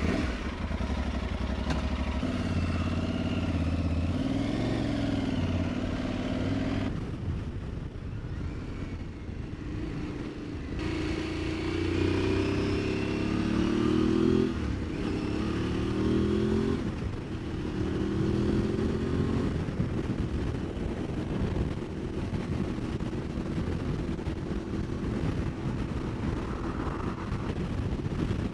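Aprilia Tuareg 660's parallel-twin engine pulling away and accelerating, its pitch rising and dropping back with each upshift several times.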